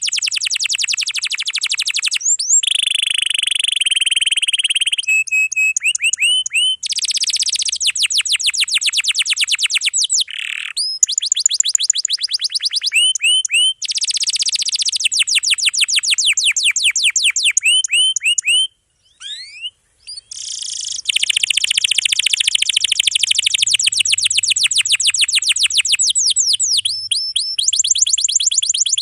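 Domestic canary singing in long, rapid rolls: fast runs of repeated down-slurred notes, changing from phrase to phrase, with a brief pause a little past the middle.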